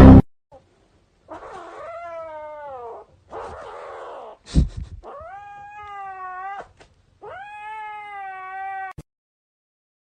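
A cat yowling: about four long, drawn-out meows, the first one rough and falling in pitch, with a short knock between the second and third.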